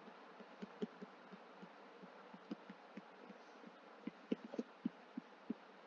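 Faint, irregular light taps over a quiet background hiss, coming more often in the last two seconds.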